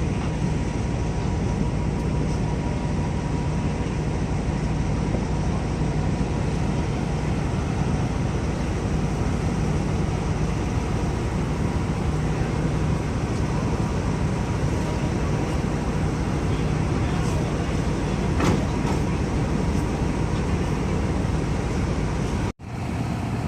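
Diesel-hauled passenger train running, heard from a coach window: a steady rumble of wheels on the track with a low hum underneath. There is one sharp click about three-quarters of the way through, and the sound cuts out for an instant near the end.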